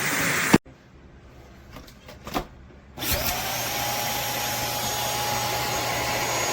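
Shark cordless vacuum motor running, then switching off abruptly just after the start. After a few clicks it switches back on about three seconds in: a whine rises and settles into a steady tone as it runs.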